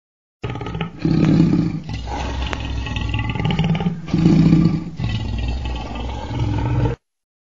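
Crocodile growling deep and rough, loudest about a second in and again about four seconds in, then cutting off suddenly near the end.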